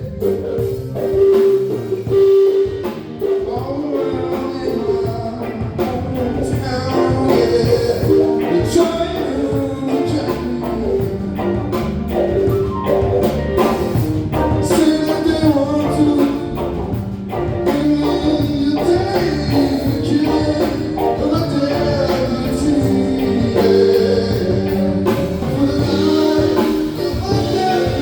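Live band playing a song with drums and guitar, a voice singing over it.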